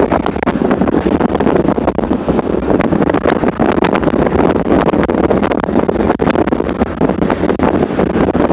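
Wind buffeting the microphone in the open bed of a moving pickup truck, a loud steady rush with constant crackling gusts, with road and vehicle noise underneath.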